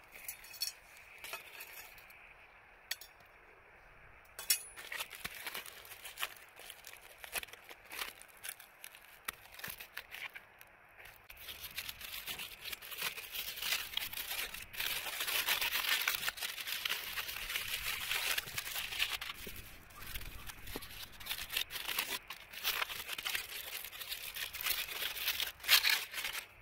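Scattered small clinks of roasting stones being moved, then from about halfway a longer stretch of crinkling and rustling with many small clicks as a stone-roasted sweet potato is dug out and unwrapped.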